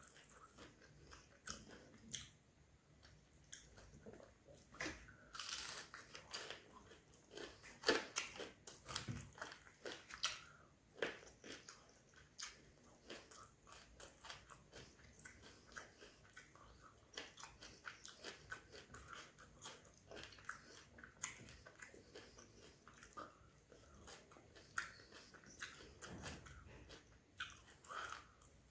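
A person chewing and crunching crispy fried prawn wade (prawn vadai) with raw onion and tomato sauce, with many short crunches.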